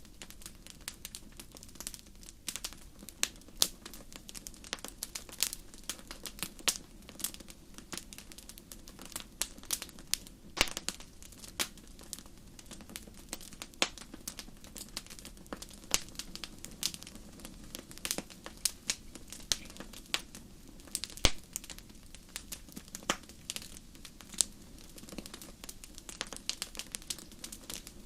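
Wood fire burning in a fireplace, crackling and popping with many irregular sharp snaps over a low steady rush of flame.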